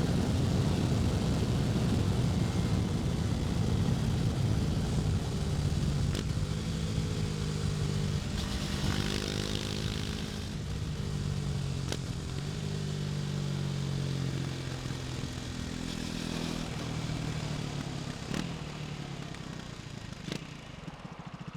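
KTM Duke 250's single-cylinder engine running on the move, its pitch rising and falling with the throttle, easing down and getting quieter toward the end.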